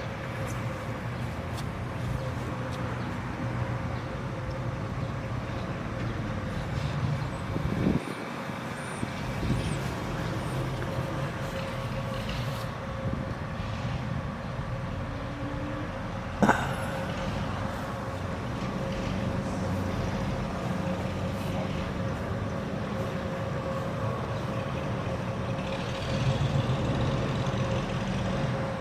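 Steady engine or motor rumble with a constant hum, and one sharp click about halfway through.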